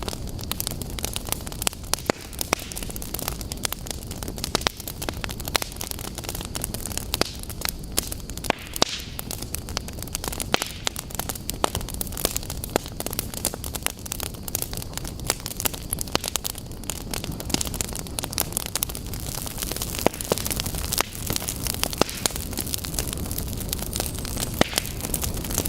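Fire burning in a fireplace, crackling steadily: many sharp little pops and snaps, a few louder than the rest, over a constant low rumble and hiss of the flames.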